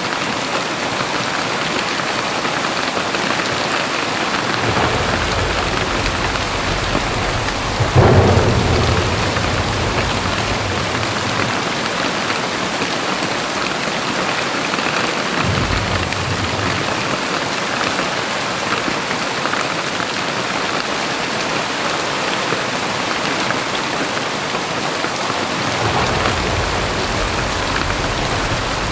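Heavy rain pouring steadily, with thunder rolling through it: a low rumble builds about five seconds in, and a sharp clap about eight seconds in is the loudest moment, rolling off into rumble. Further rumbles come around the middle and again near the end.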